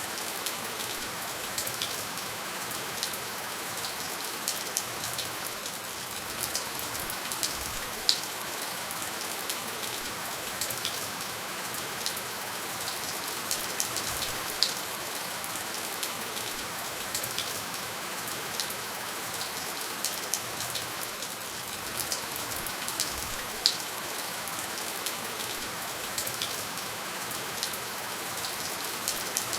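Steady rainfall without thunder, with individual drops ticking sharply and irregularly over the even hiss.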